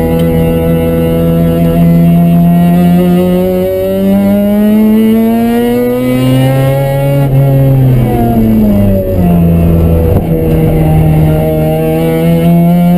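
Mazda RX-7's two-rotor rotary engine running hard on track, heard from inside the cabin. Its note steps up about four seconds in, climbs, falls away around eight seconds, then holds steady again.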